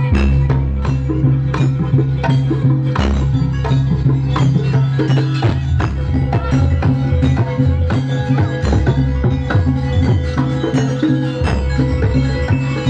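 Traditional East Javanese percussion-ensemble music: regular struck beats and drum strokes over sustained ringing metallic tones and a deep low pulse.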